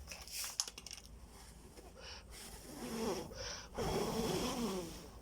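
Steel wool rubbed against a cell-phone battery, with a few sharp crackles and clicks in the first second. From about halfway, louder voice-like sounds with gliding pitch come in and are the loudest part.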